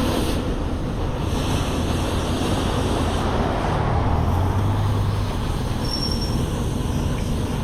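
Steady road traffic noise, with a passing vehicle's low engine hum swelling for about a second in the middle.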